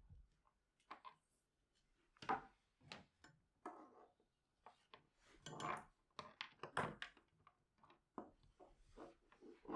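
Objects being handled by hand: a quiet string of irregular soft knocks, taps and rubs.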